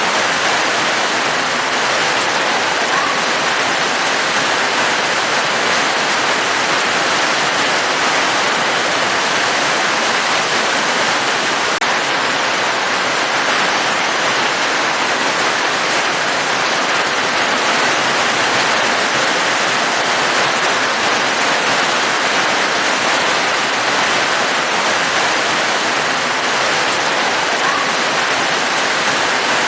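Steady, heavy rain: an even hiss with no breaks or changes.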